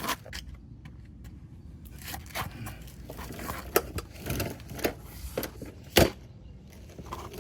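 Scattered clicks, knocks and scrapes of tools being picked up and handled, with the sharpest knock about six seconds in.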